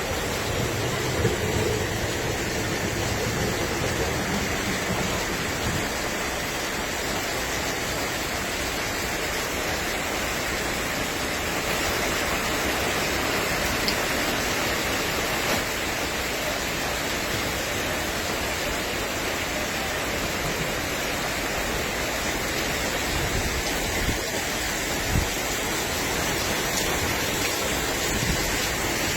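Steady rushing noise of heavy rain and floodwater pouring down, with a few faint knocks here and there.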